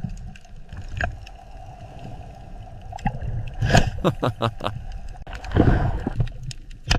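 Watery underwater-style ambience: a low rumble and gurgling, broken by scattered sharp clicks and a louder swell about two-thirds of the way through.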